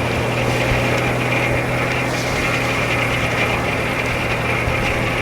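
Engine powering a Frick No. 1 sawmill running steadily at an even speed, the saw no longer cutting wood.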